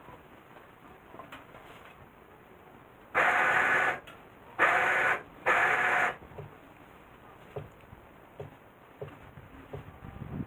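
Truck-mounted electric winch, worked by remote control, running in three short bursts of under a second each that start and stop abruptly, inching a hinoki log up on its line.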